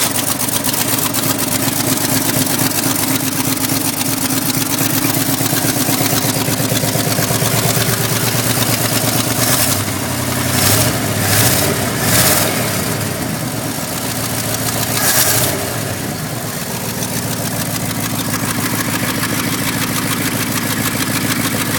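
Ford Thunderbird engine running steadily at idle, which the owner finds runs pretty nice. It is revved in a few short blips about ten to thirteen seconds in and once more about fifteen seconds in, then settles back to idle.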